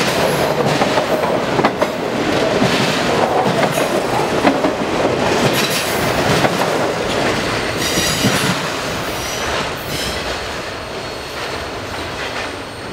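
Freight train of enclosed autorack cars rolling past close by: steel wheels clicking over the rail joints and rumbling on the track, with a brief high wheel squeal about eight seconds in. The noise fades near the end as the last car pulls away.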